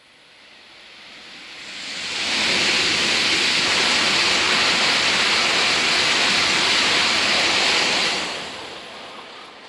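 A Tokaido Shinkansen train passing at high speed: a rushing sound that builds quickly, holds loud for about six seconds as the train goes by, then drops away to a fading tail.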